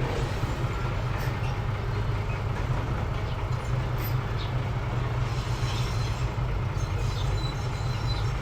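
Engine of a working earth-moving machine running steadily as a low drone, with a few faint clanks on top.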